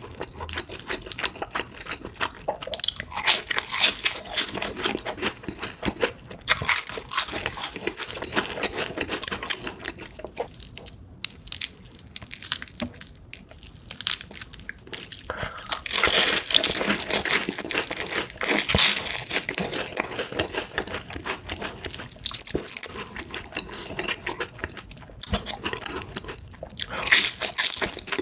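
Close-miked eating sounds: crunchy bites and chewing, in bursts of dense crackling with a quieter lull in the middle.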